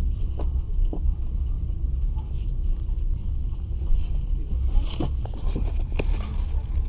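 Passenger train running, heard from inside the carriage: a steady low rumble with a few sharp clacks of the wheels over the rails, a pair about a second in and more about five and six seconds in.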